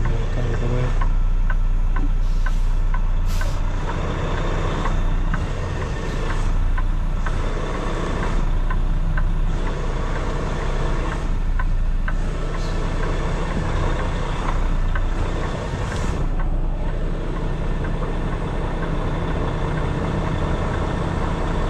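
Kenworth T680 semi truck's diesel engine running at low speed from inside the cab during a slow pull-up maneuver, with a regular light ticking for the first half and two brief hisses, about three seconds and sixteen seconds in.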